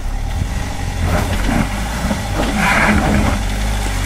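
Land Rover Freelander engine revving under load as it climbs a steep, muddy bank, its tyres sliding in the mud. The engine note rises and falls, with a burst of noise a little past halfway.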